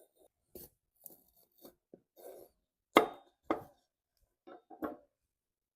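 Knife cutting through a bell pepper onto a cutting board: a series of separate knocks and crunches, the loudest about three seconds in.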